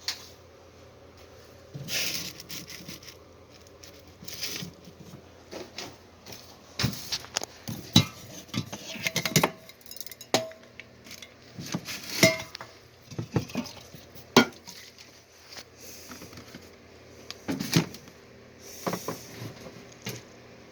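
Tools and metal objects being picked up, shifted and set down on a workbench: irregular clanks and clinks, a few of them ringing briefly.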